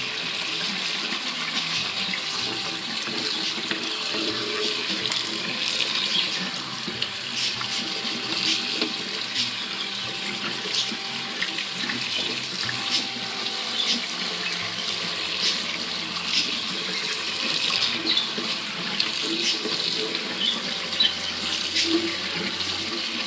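Cold tap water running steadily as soaked sprouting seeds are rinsed under it, with small irregular splashes and ticks over the flow.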